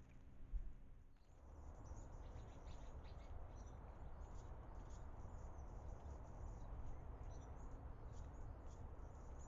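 Faint, short, high chirps of small birds scattered through a steady low background rumble outdoors, with one soft thump just after the start.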